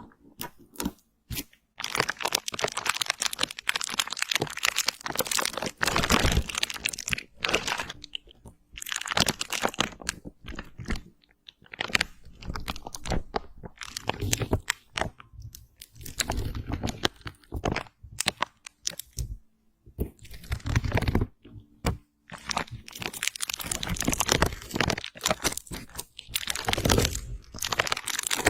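Close-miked ASMR crunching and crackling: dense runs of crisp clicks lasting a few seconds each, broken by short pauses.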